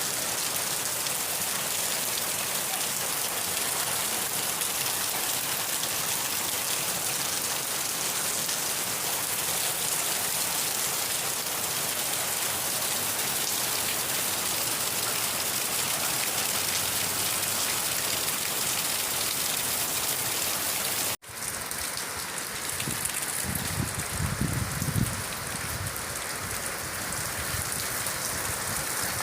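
Steady rain falling, an even hiss of drops. About two-thirds of the way through the sound cuts out for an instant and resumes with a slightly different tone, and a few seconds later a low rumble rises briefly under the rain.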